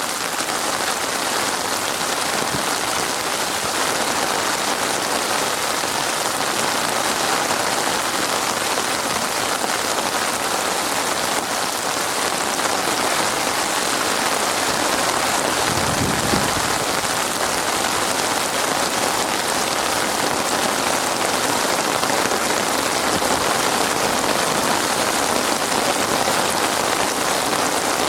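Heavy rain pouring steadily in a dense, even hiss. A brief low rumble comes about halfway through.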